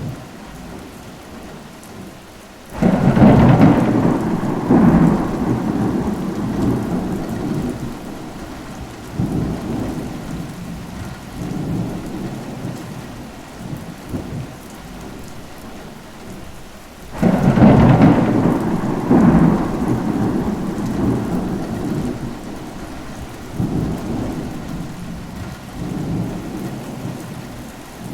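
Thunderstorm: steady rain with two loud thunderclaps, one about three seconds in and another about seventeen seconds in, each rumbling on in swells for several seconds.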